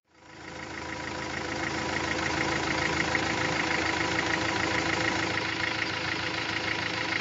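Truck diesel engine idling steadily with a fast, even clatter, fading in over the first couple of seconds after a sudden cut.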